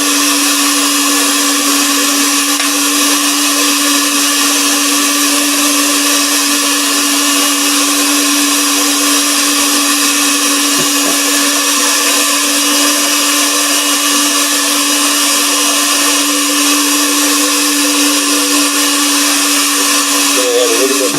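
Electric mixer running steadily, beating buttercream to work in yellow food colouring.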